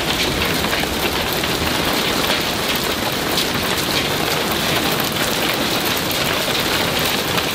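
Heavy thunderstorm rain falling steadily and evenly, with many individual drops striking surfaces.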